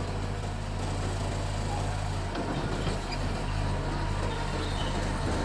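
A bulldozer's diesel engine running steadily, a continuous low drone with a constant pitch.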